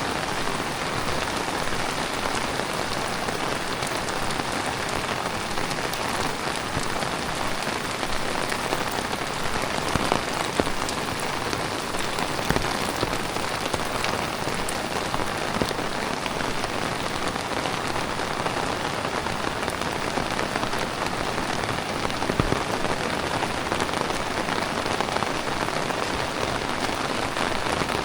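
Heavy tropical rain pouring steadily, with scattered sharper hits of single drops.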